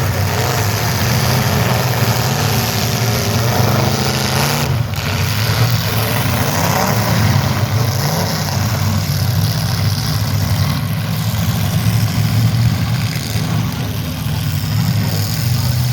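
Demolition derby cars' engines running, a steady low drone with revs rising and falling now and then.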